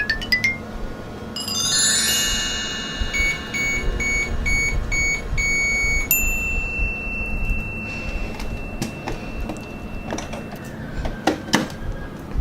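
Electronic chime sound effect: a quick falling cascade of bell-like tones with a repeated beep, then one long high beep. A few sharp plastic clicks follow near the end.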